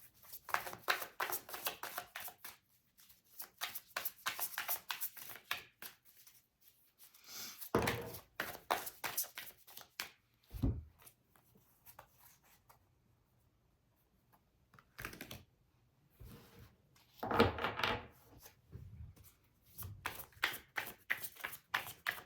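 A tarot deck being shuffled by hand to draw a clarifier card: several runs of quick card clicks with pauses between them. There is a single thump about ten and a half seconds in.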